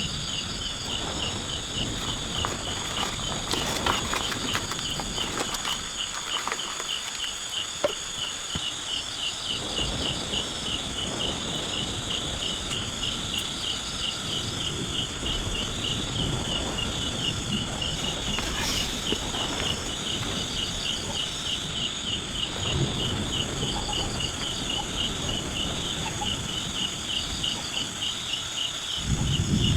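Rainforest insects chirping in a steady, fast, evenly pulsing rhythm, with a steady high hum above it. Occasional low rustling and a few sharp knocks come through underneath.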